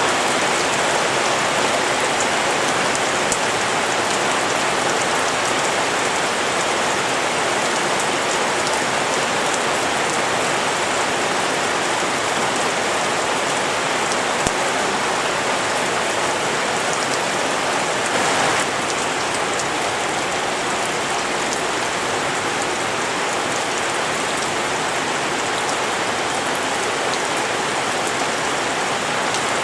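Steady rain falling on rice paddies, a dense even hiss of rain.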